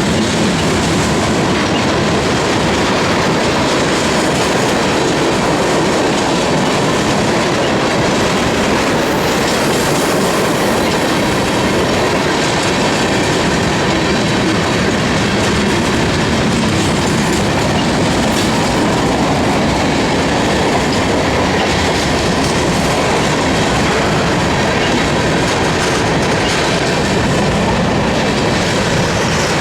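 Freight train cars rolling past on the rails, a loud, steady rumble and clatter of steel wheels on track.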